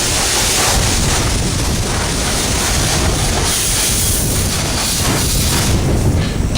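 Pressure-washer spray: a loud, steady hiss, with wind buffeting the microphone underneath.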